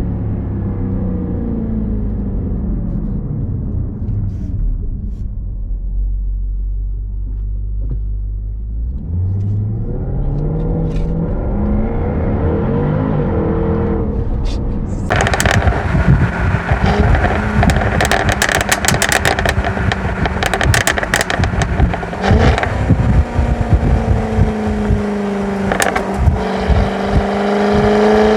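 Supercharged 5.0-litre V8 of a Jaguar F-Type R through its active exhaust: the engine note drops and settles low, then climbs as the car accelerates. About fifteen seconds in it turns suddenly much louder and rougher, with many sharp cracks, and near the end another rising rev.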